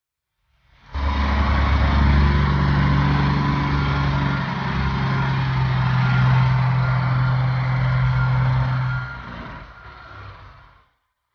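A motor vehicle's engine running close by with a steady low hum. The sound cuts in abruptly about a second in, holds steady, then fades away near the end.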